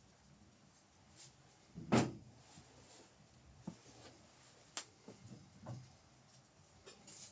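A few scattered knocks and clicks, the loudest a single thump about two seconds in, with sharper clicks near four and five seconds.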